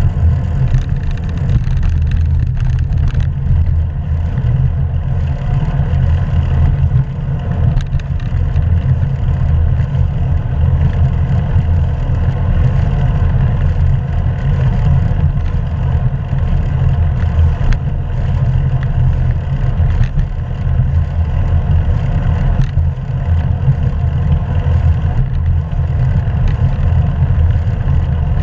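Steady low rumble of wind buffeting a GoPro camera's microphone on a moving bicycle.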